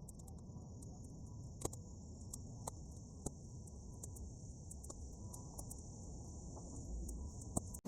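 Bonfire of half-dry weeds crackling, with scattered sharp pops over a steady low rumble and a continuous high-pitched buzz. The sound breaks off abruptly near the end.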